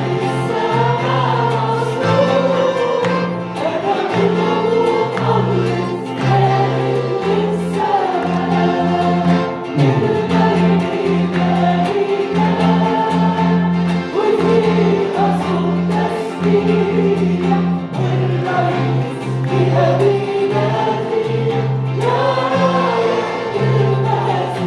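Congregation singing an upbeat Arabic worship song with a live band and a bass line moving in a steady rhythm.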